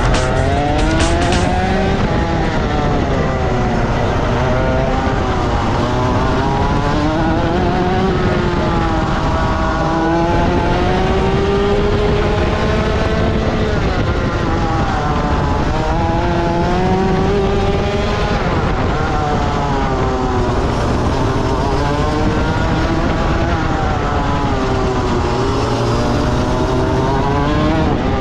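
Rotax Max 125 cc two-stroke kart engine at full load on track, its revs climbing and dropping every few seconds as the kart accelerates out of corners and brakes into them.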